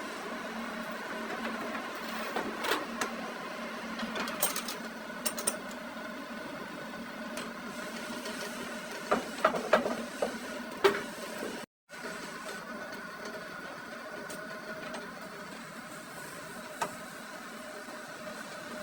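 Metal lathe running with a steady hum, with scattered sharp metallic clinks and taps from work on the axle steel. The sound cuts out for an instant a little past halfway.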